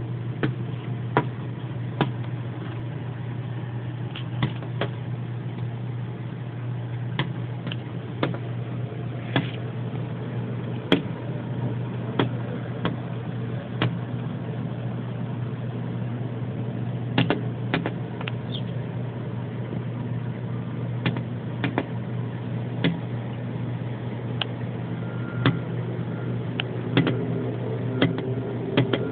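A northern cardinal pecking with its beak, giving sharp, irregular taps about a second apart, sometimes in quick runs of two or three, as it tries to peck its way in. A steady low hum runs underneath.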